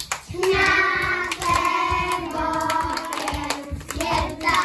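Young children singing a sustained melodic line, with hand clapping.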